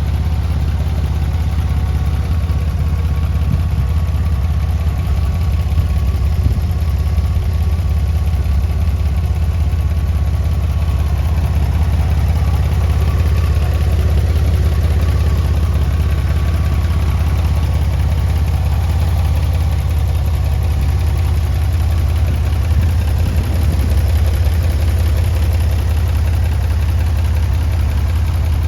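Toyota Land Cruiser FJ62's 4.0-litre straight-six petrol engine idling steadily.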